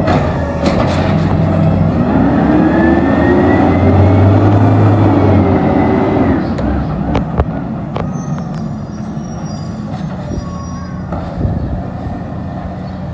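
Garbage truck's diesel engine revving up with a rising whine for a few seconds, then dropping back about six seconds in. A few sharp knocks follow, and the engine settles to quieter running.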